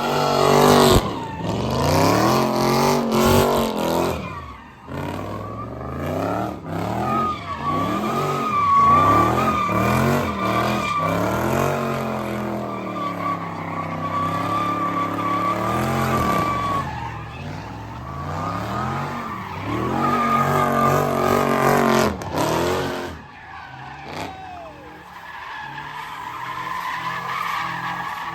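A car's engine revving hard up and down over and over while its tyres spin and squeal, with a long steady tyre screech through the middle. Near the end the engine drops back to a lower, quieter run.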